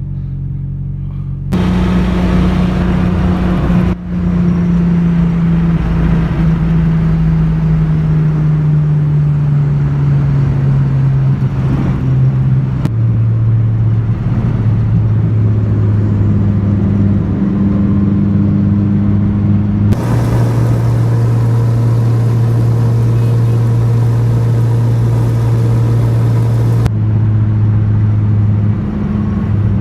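Car engine running while driving, a steady drone that slowly falls in pitch and then jumps abruptly to a new pitch several times.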